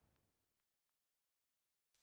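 Near silence: a very faint hiss fades out in the first second, then dead silence.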